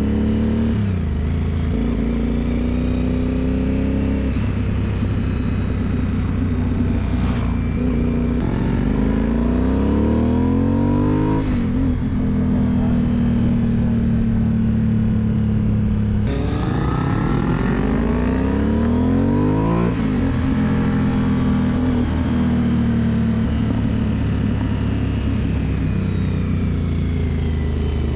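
Aprilia Dorsoduro 750's V-twin engine heard on board on a mountain descent, pitch climbing as it pulls through the gears twice and easing off into long falling stretches of engine braking in between.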